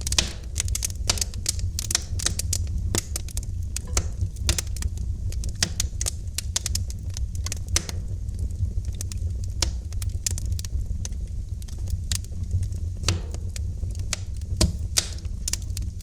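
Wood fire crackling in a fireplace: dense, irregular snaps and pops, several a second, over a steady low rumble of the burning fire.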